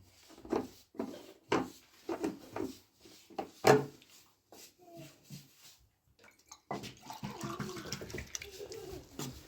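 Water splashing in a series of short, sudden bursts, then running steadily from about seven seconds in.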